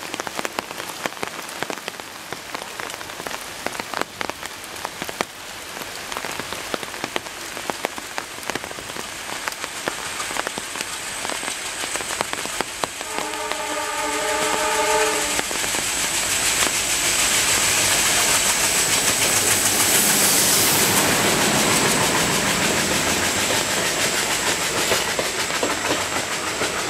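Heavy rain patters steadily on a nearby surface throughout. Just past halfway, an ALCO diesel locomotive sounds its horn once for about two and a half seconds. It then grows louder as it draws level and passes, followed by its coaches running by with wheel clatter.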